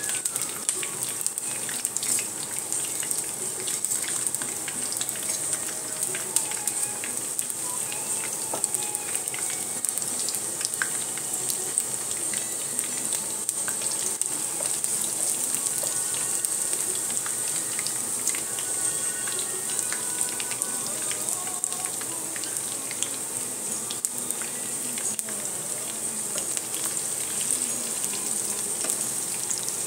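Garlic paste and bay leaves frying in hot oil in a wok: a steady sizzle, thick with fine crackles.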